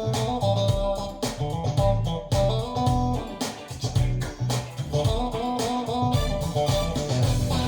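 Guitar-led music with bass guitar and a steady beat, played back over Wilson Audio Watt/Puppy 6 loudspeakers.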